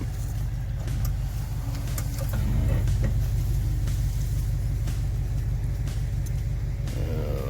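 Truck engine running steadily under load, pulling on a tow line hitched to a fallen tree to rip it out.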